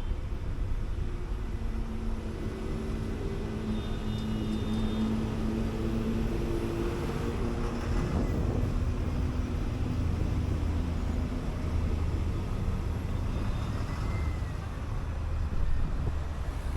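City bus driving on the road: a steady low engine rumble with road noise, and a humming drivetrain tone that fades out about halfway through.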